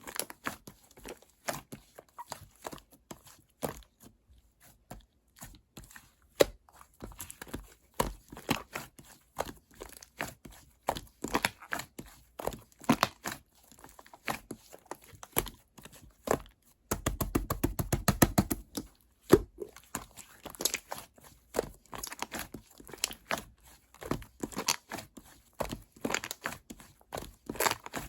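Slime being squished, folded and stretched by hand as clay is mixed into it, making irregular sticky pops and clicks. About 17 seconds in, a denser run of crackling lasts a couple of seconds.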